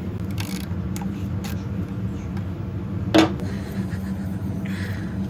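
Metal parts and tools being handled during motorcycle repair work: a few light clicks, then one sharp metallic clink about three seconds in, over a steady low hum.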